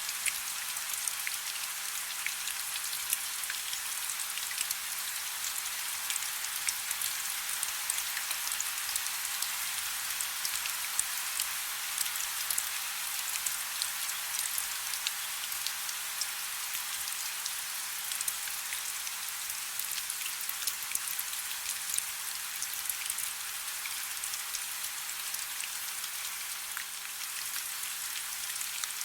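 Soft steady rain: an even hiss with many small raindrop ticks pattering throughout.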